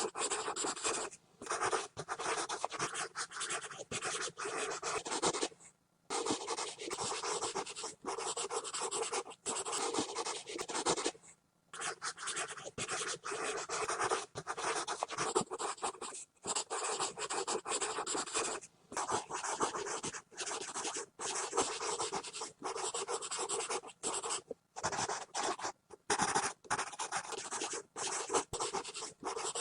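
Pencil scribbling fast on paper: continuous scratchy strokes in quick runs, broken now and then by short pauses when the lead lifts off the page.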